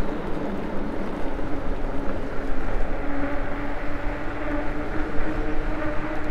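ENGWE E26 fat-tyre e-bike riding along: the rear hub motor's steady whine over the rolling noise of the fat tyres and wind rumble.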